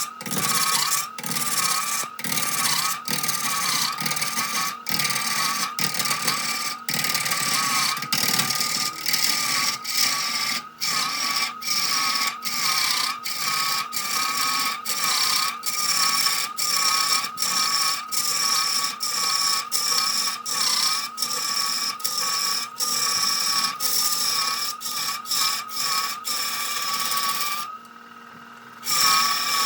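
Wood lathe spinning a log while a turning tool cuts into the wood, giving a steady high whine that wavers about once a second over a scraping, rubbing noise. There are many very short dropouts, and the sound drops away for about a second near the end.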